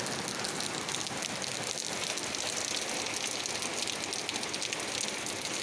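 Steady rain falling: an even hiss of many fine drops.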